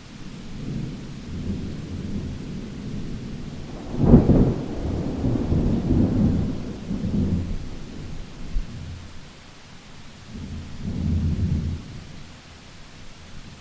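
Thunder rolling over steady rain: a rumble builds, then a sharp, loud crack about four seconds in rolls on for several seconds, and a second lower rumble swells near the end.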